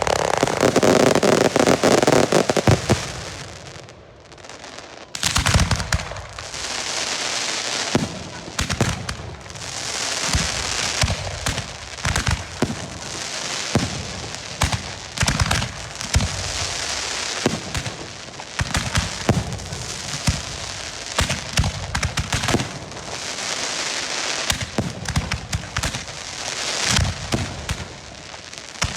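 Girândolas, volleys of Portuguese fireworks rockets fired together, going off in a dense, continuous crackle of rapid overlapping bangs. It eases briefly about four seconds in, then picks up again just as thickly.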